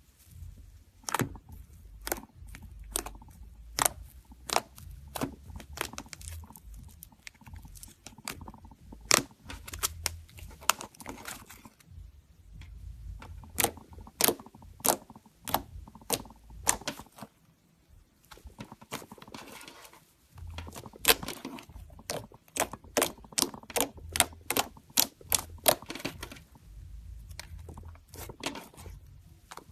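Slime being squeezed and pressed by hand, giving irregular runs of sharp clicking pops, with short pauses about twelve and eighteen seconds in.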